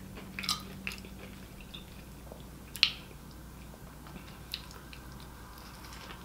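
Faint mouth sounds of someone eating a bacon burger: quiet chewing and smacking, with a few short sharp clicks, the loudest about three seconds in.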